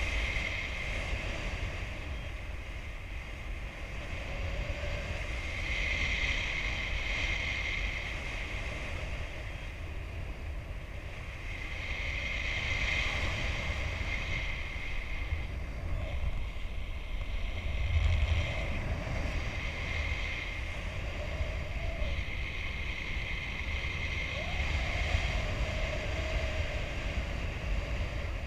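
Airflow rushing over the microphone of a paraglider pilot in flight: a steady low buffeting, with a hiss that swells and fades every six seconds or so.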